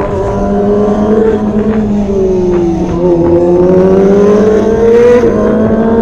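Kawasaki ZX25R's 249 cc inline-four with an SC Project aftermarket exhaust running at high revs while riding. The note sags about halfway through, climbs steadily again, and breaks briefly just past five seconds before carrying on.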